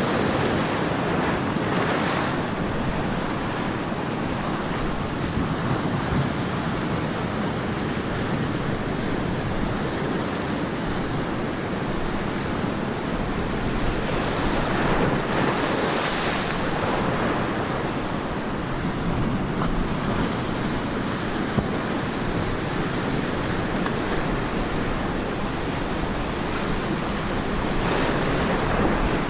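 Ocean surf washing onto a beach in a continuous rush, swelling louder a few times as bigger waves break.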